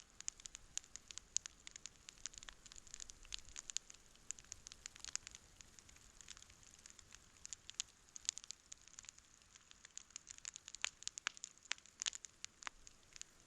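Wood campfire burning and crackling, with many small, sharp, irregular pops over a faint steady hiss.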